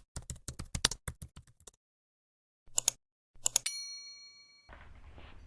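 A fast run of typewriter-like clicks, then two short clacks and a bell-like ding that rings out and fades; faint low background noise follows near the end.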